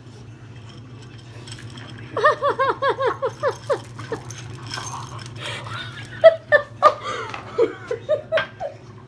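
A person laughing: a quick run of about ten giggles starting about two seconds in, then more broken laughter near the end, over a steady low hum.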